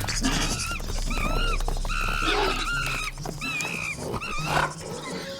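A series of about five or six short, high, arching animal-like calls, yelps or whines in a cartoon soundtrack.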